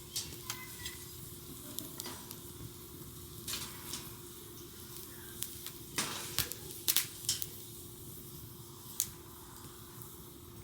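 Wood campfire crackling: irregular sharp pops over a steady hiss, with a cluster of louder pops about six to seven seconds in.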